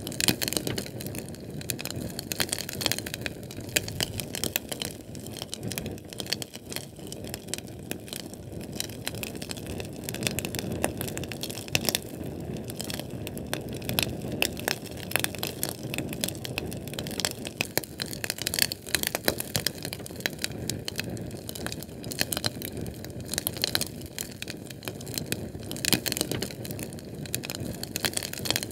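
Fire crackling: many small sharp pops and snaps, irregular and close together, over a low steady rush of flame.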